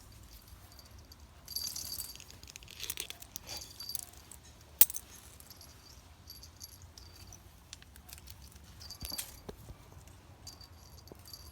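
Light metallic jingling in short spells, with rustling and one sharp click about five seconds in.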